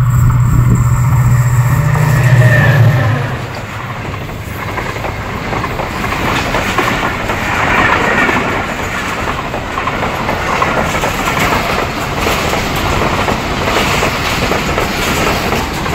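Express passenger train passing at high speed behind an SGMU30 diesel-electric locomotive. The locomotive's engine hum is strong for about the first three seconds and then gives way to a long rake of coaches rushing past, wheels clattering over the rails.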